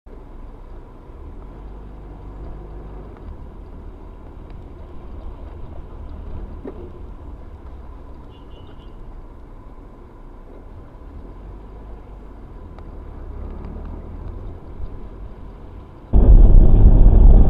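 Low, steady road and engine rumble of a moving vehicle as picked up by a dash camera, with a faint steady tone above it. Near the end a much louder rumble starts abruptly.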